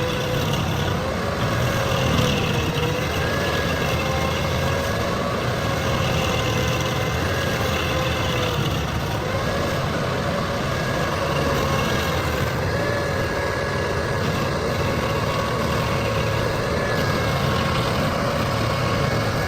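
A heavy machine's engine running steadily, its pitch wavering slightly.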